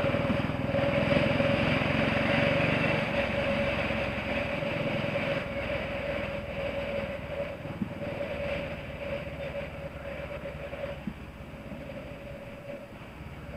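Royal Enfield single-cylinder four-stroke engine running under way, its firing pulses under a rushing of wind and tyres on wet tarmac. The sound is loudest in the first few seconds and grows gradually quieter as the throttle eases off.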